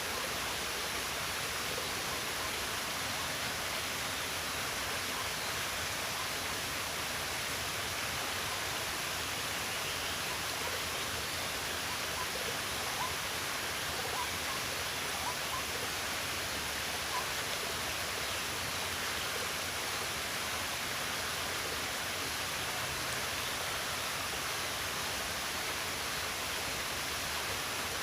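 Running water rushing steadily, an even hiss with no breaks and a few faint small splashes.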